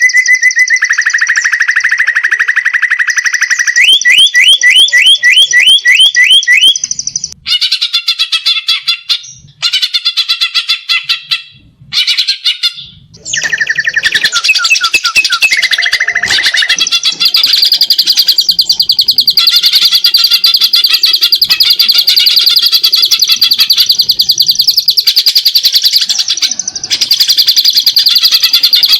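Greater green leafbird (cucak ijo) singing loudly in a varied run of whistled phrases and rapid repeated notes, ending in a long, fast, unbroken trill, its song filled with mimicked canary and tree sparrow phrases.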